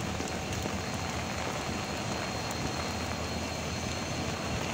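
Steady hiss of heavy rain with the low, steady running of a diesel locomotive's engine underneath.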